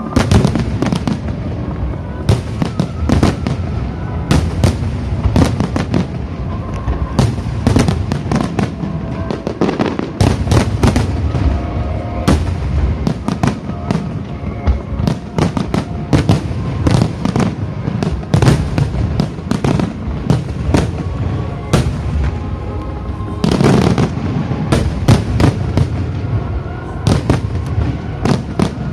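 Wide starmine fireworks: shells bursting in rapid succession, a dense string of booms and crackles, with an especially heavy cluster of bursts a few seconds before the end.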